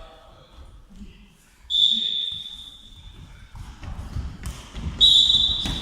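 Referee's whistle blown twice, a steady high blast fading away, then another about three seconds later, with thuds of the ball and players' feet on the court in between.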